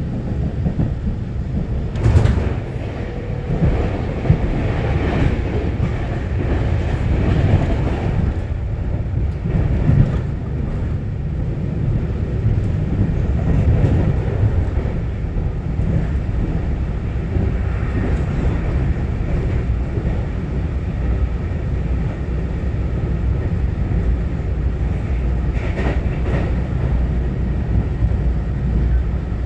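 Taiwan Railway EMU900-series electric multiple unit (set EMU923) running at speed, heard from inside the carriage: a steady low rumble with occasional sharp clacks of the wheels over rail joints.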